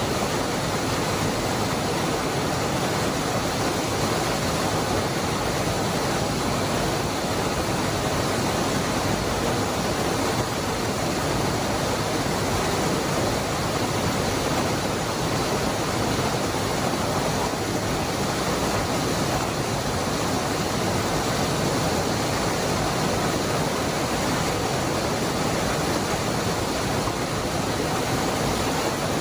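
Cascada del Hervidero waterfall: a steady, even rush of falling water with no breaks or changes.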